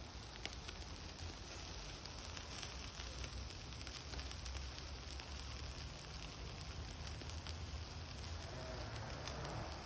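An outdoor cooking fire hissing steadily, with a few faint crackles.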